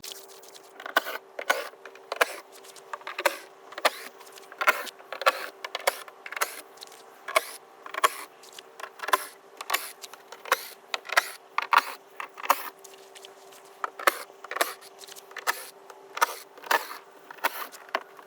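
A long series of sharp clicks and knocks at uneven spacing, roughly one to two a second, over a faint steady hum.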